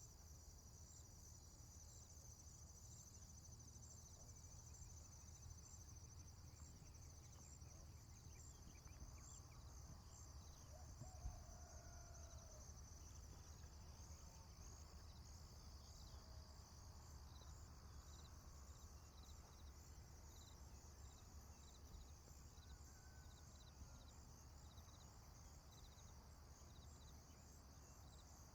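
Faint crickets chirping steadily in a rapid pulsing trill, over a low rumble, with a few faint bird calls near the middle and a single soft knock about eleven seconds in.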